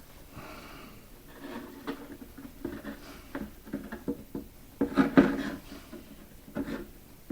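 Hands handling refrigerated pie dough over the tops of pot-pie crocks: irregular rustling and rubbing with light knocks. The loudest cluster comes about five seconds in.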